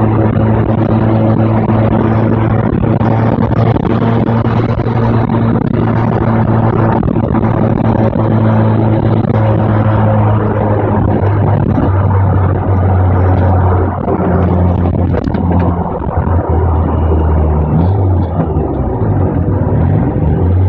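Mazda RX-7 FD's single-turbo two-rotor 13B rotary engine heard from inside the cabin while driving, on a distorted phone recording. It holds a steady note for the first half, then drops to a lower pitch and wavers up and down in steps near the end.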